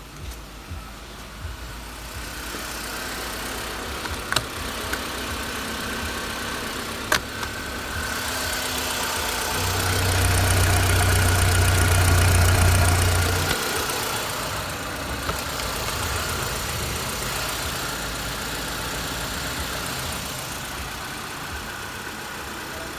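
Renault Laguna II's 1.8-litre F4P four-cylinder petrol engine running, with two sharp clicks about four and seven seconds in. About ten seconds in it gets louder for some four seconds, then settles back to a steady run.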